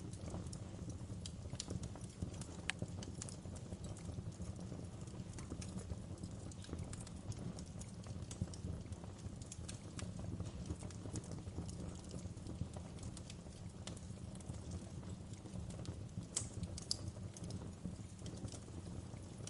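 Fire crackling steadily: scattered sharp pops and snaps over a low, even rumble, with a few louder pops close together near the end.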